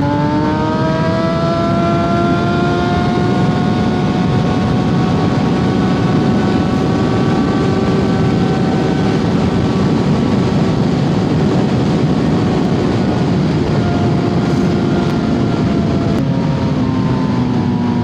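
Suzuki GSX-R750 inline-four engine pulling up in pitch over the first couple of seconds, then holding a steady high-revving note at cruising speed. Heavy wind rush over the helmet-mounted microphone runs underneath.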